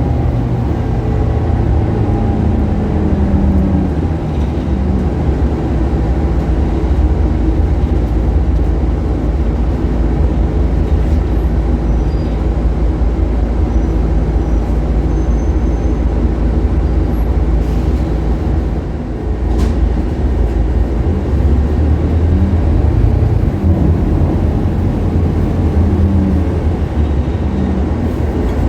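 Scania K280UB city bus's five-cylinder diesel engine running under way, a deep steady drone whose pitch rises and falls a few times as the bus speeds up and slows. A single sharp click sounds about two-thirds of the way through.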